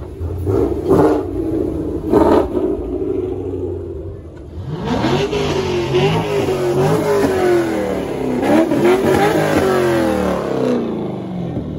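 Two short, sharp engine revs about a second apart near the start. Then, from about five seconds in, a C5 Chevrolet Corvette's V8 revs up and down again and again for some six seconds.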